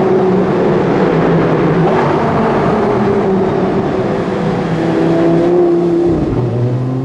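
Audi R8 V10 with a Quicksilver exhaust, heard from inside the cabin, running under load at fairly steady revs. About six seconds in the engine note drops sharply and then starts to climb again.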